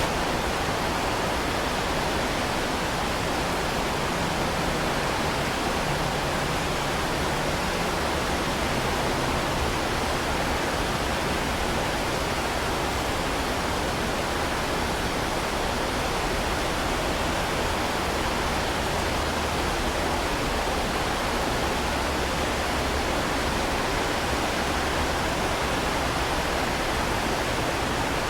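Heavy rain falling, a dense, steady hiss that does not change.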